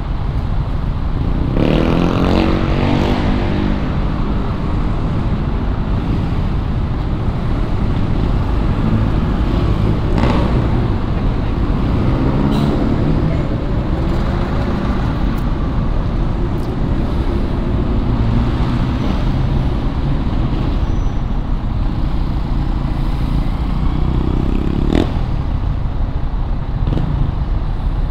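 Street traffic noise: a steady low rumble of engines and tyres, with a vehicle passing loudly about two seconds in and a few short, sharp sounds later on.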